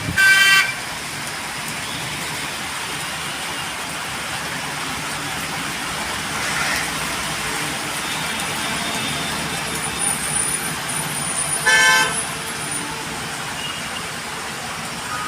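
Road traffic running steadily, with vehicle horns: a quick series of toots ending about half a second in, and one more short honk about twelve seconds in.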